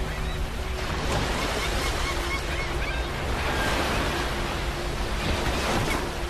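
Ocean surf washing onto a beach: a steady rush of breaking waves that swells slightly in the middle.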